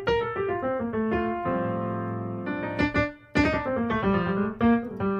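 Keyboard in a piano voice playing a chord progression with a melody on top, the chords struck about twice a second, with a short pause a little past halfway. The chords are jazz upper-structure voicings, moving from a dominant chord to a minor one.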